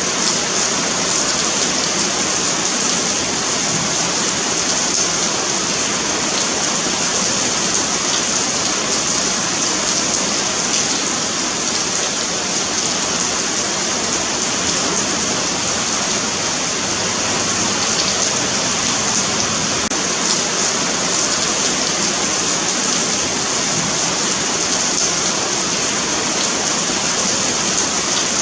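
Steady rain falling on a paved sidewalk, a continuous even hiss of drops on pavement with no letup.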